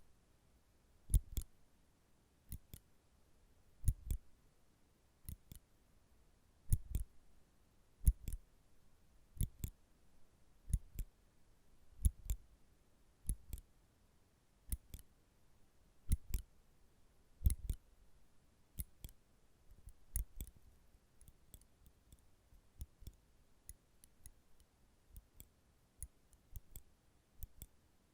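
Metal nail clippers clicking shut, close up: sharp clicks about every second and a half, often two in quick succession. From about two-thirds of the way in they come faster and lighter.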